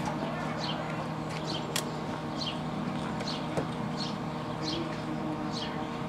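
A bird calling over and over with short chirps that fall in pitch, about one a second, over a steady low electrical hum with a few faint clicks.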